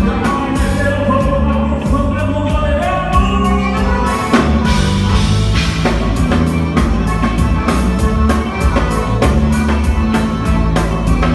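Gaúcho dance band playing a fast number, with a drum kit keeping a quick, even beat under bass and melody.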